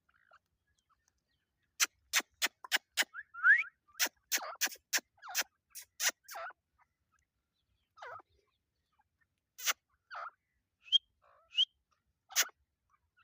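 Teetar (partridge) calling: runs of sharp clicking notes, about four a second, with a short rising call about three and a half seconds in, then scattered single notes.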